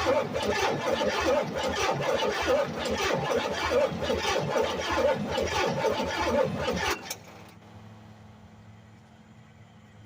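Buick 455 V8 engine running with an uneven pulsing beat, then cutting off abruptly about seven seconds in, leaving only a faint low hum.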